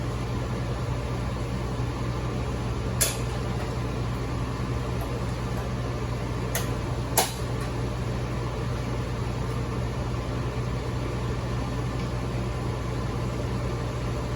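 Packaged HVAC unit running with its DX cooling on, a steady low hum. Three sharp clicks or knocks break through, about three seconds in and twice more around six and a half and seven seconds in, the last one loudest, as panels and parts are put back together.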